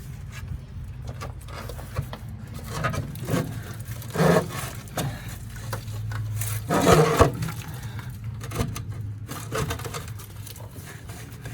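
Scraping, clicking and knocking of hand work on metal parts, loudest about four and seven seconds in, over a steady low hum.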